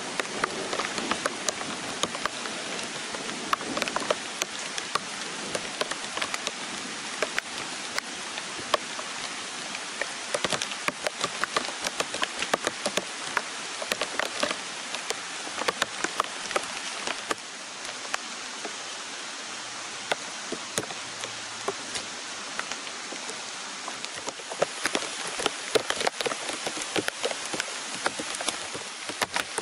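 Steady rain falling on the forest, an even hiss with many sharp, close raindrop taps scattered through it.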